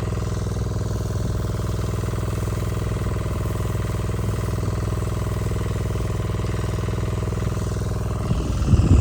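Generator engine running steadily at constant speed. A few low thumps or rumbles come in near the end.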